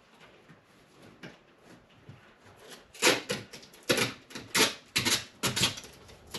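Ducting tape being worked onto a metal dryer vent duct: a quick run of six or seven sharp crinkling rasps starting about halfway through.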